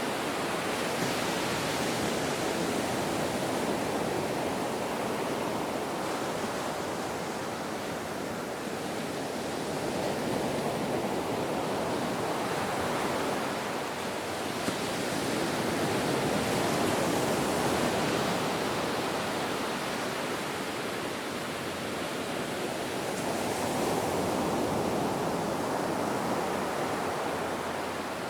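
Ocean surf: a continuous wash of waves, swelling and easing slowly every several seconds.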